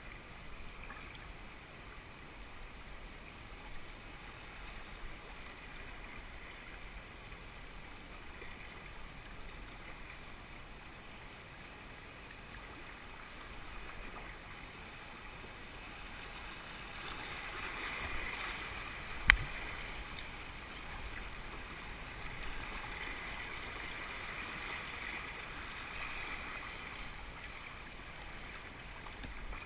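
Moving river water around a kayak, a steady rushing wash that swells a little in places. A single sharp knock about two-thirds of the way through is the loudest sound.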